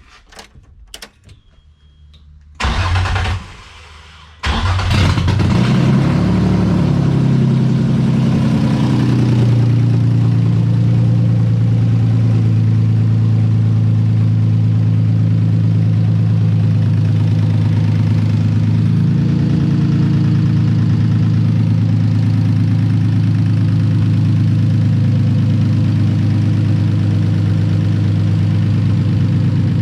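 Nissan VQ35DE 3.5-litre V6 with open headers starting: a short burst about three seconds in, then it fires about a second later and runs loud, its high idle easing down over several seconds to a steady idle.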